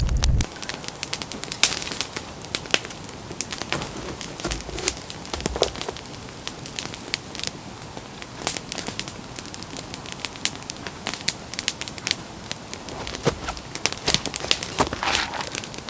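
Wood campfire crackling, with sharp pops and snaps scattered irregularly throughout.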